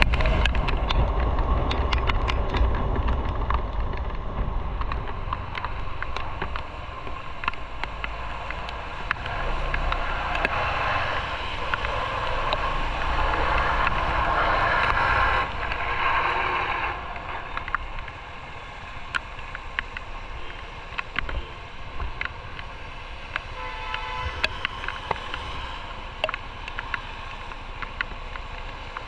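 Motorcycle on the move: wind rushing over the microphone with road and engine noise. Heavy low buffeting at first eases off, a louder stretch in the middle cuts down suddenly, and a quieter steady rush follows.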